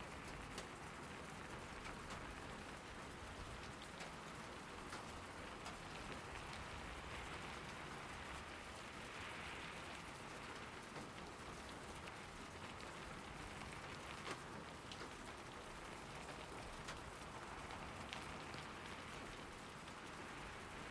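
Steady rain falling, with scattered individual drops ticking close by. The rain swells slightly twice.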